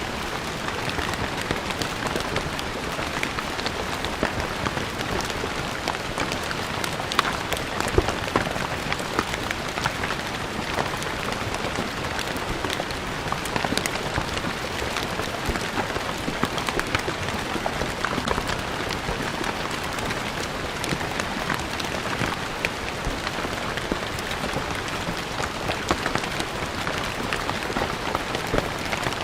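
Steady rain falling on a stone floor, a dense patter with many separate drops splashing.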